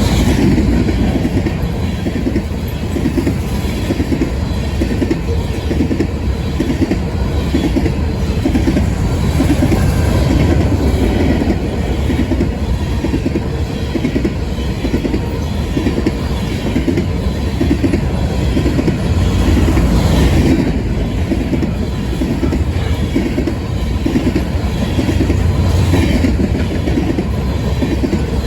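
Empty BNSF grain hopper cars rolling past at speed, their wheels beating a steady, rhythmic clickety-clack over the rail joints under a loud rumble.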